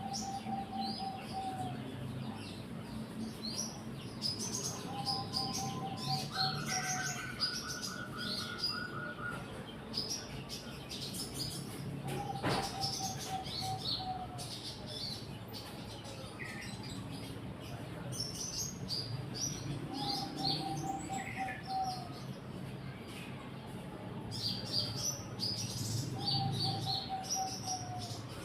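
Several birds chirping, with many short high chirps throughout. A lower, rapid trill of evenly repeated notes, each about a second long, comes back roughly every six or seven seconds.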